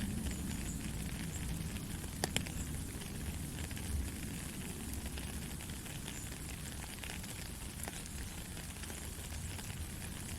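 Steady rain falling: a dense even hiss of drops with a low rumble beneath, and a couple of sharper drop clicks about two seconds in.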